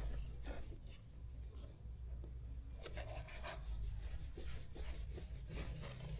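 Soft scratching and rubbing sounds with scattered light clicks and taps, over a steady low hum.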